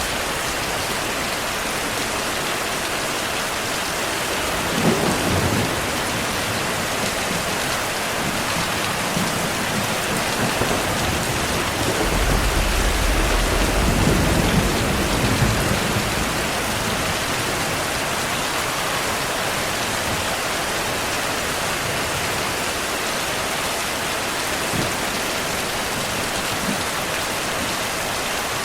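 Heavy, steady rain with two rolls of thunder: a short rumble about five seconds in and a longer, deeper one from about twelve to sixteen seconds.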